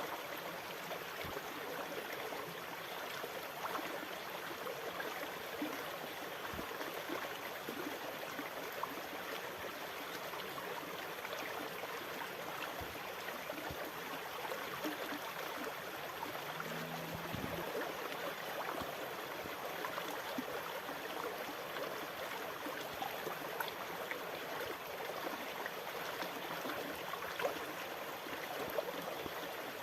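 Water rushing and gurgling in a steady, even wash, with no separate wave breaks standing out.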